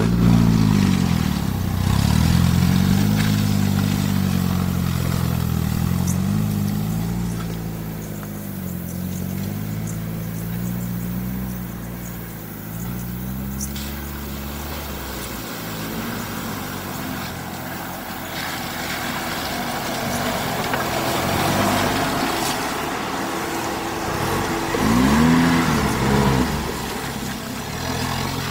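Small off-road 4x4 engines revving up and down over and over as they crawl across rough ground, loudest over the first dozen seconds, then softer, with one quick rev rising and falling about 25 seconds in.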